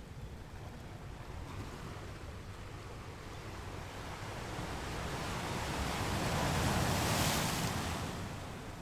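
Ocean surf: a single wave swells from about a second and a half in, grows to its loudest near the end as it breaks and washes in, then falls away.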